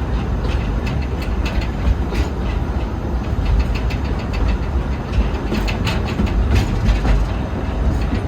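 Forest railway train running, heard from aboard a passenger car: a steady low rumble with irregular clicks of the wheels on the rails.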